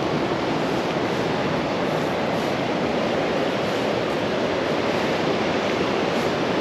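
Ocean surf washing onto the beach in a steady, even rush.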